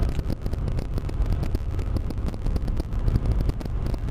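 Steady low rumble of a moving vehicle, with many small irregular clicks over it.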